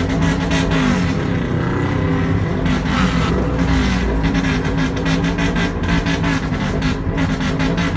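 Suzuki GS400 motorcycle's air-cooled parallel-twin engine, enlarged to 450, running loud through its exhaust and being revved. Its pitch dips and rises again between about one and three and a half seconds in, then holds steady, in the throttle-play style of a Japanese 'call'.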